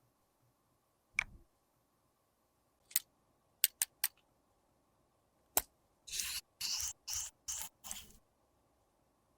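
Close-up handling of makeup products with small tools: a few sharp clicks and taps, then five quick snipping or scraping strokes in a row near the end.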